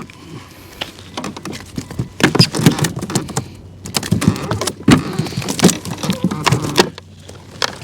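Freshly landed small fish flopping and thrashing on the kayak. It makes a rapid, irregular run of slaps and clattering knocks that is busiest through the middle few seconds.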